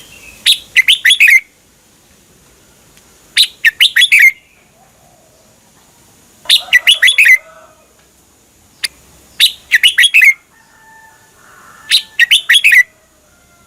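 Red-whiskered bulbul singing. It repeats a short, loud phrase of several quick sliding notes about every three seconds, five times.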